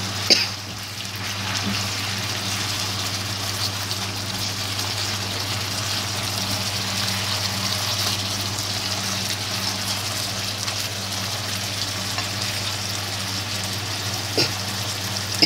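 Beef short ribs and sliced chillies sizzling steadily in their sauce in a frying pan, cooked through, over a steady low hum. Two brief sharp clicks, one just after the start and one near the end.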